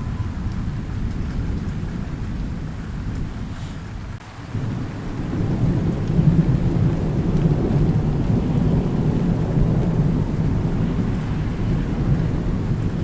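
Thunderstorm: thunder rumbling over steady rain. The rumble dies away briefly about four seconds in, then swells back and stays strong.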